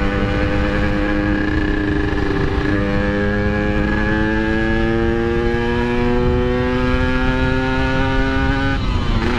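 Yamaha RX-King single-cylinder two-stroke motorcycle engine pulling under throttle, its pitch climbing steadily. Near the end the throttle closes and the pitch drops sharply.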